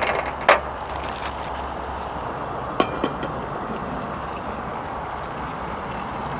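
Potatoes, cauliflower and onions sizzling steadily in oil in a Trangia pan over a gas burner turned up high, with a sharp click of the stirrer against the pan about half a second in and two lighter clicks near the middle.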